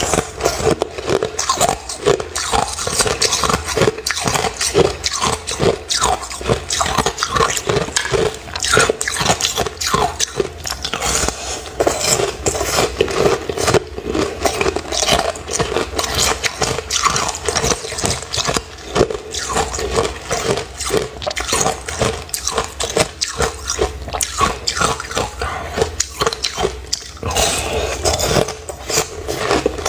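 Ice being bitten and chewed close to the microphone: a dense, irregular run of crunching and cracking throughout.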